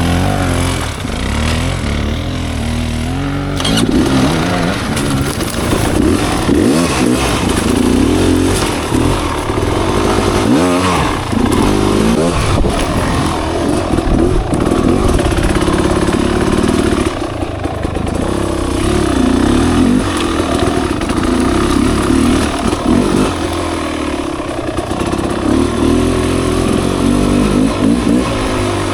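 Off-road motorcycle engine running under changing throttle while riding a trail, its pitch rising and falling as the rider revs and eases off.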